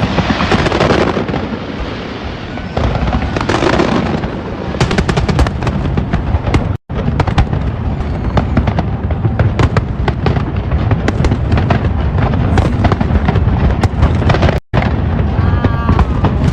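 New Year's fireworks display going off: a dense, continuous crackle of bangs and pops. The sound cuts out twice for an instant.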